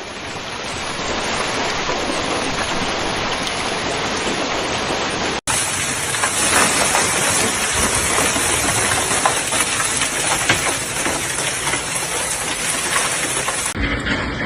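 Dense hiss of a heavy storm downpour pelting surfaces. A cut about five seconds in brings a louder stretch, thick with sharp individual hits.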